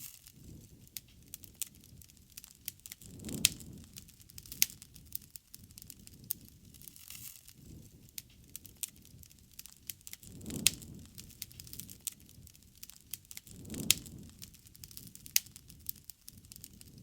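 Wood fire crackling, with scattered sharp pops and three low, breathy swells of flame.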